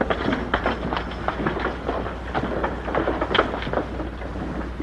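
Indistinct bustle of a group of men: low murmuring with scattered footsteps and knocks, over a steady low hum from an old film soundtrack.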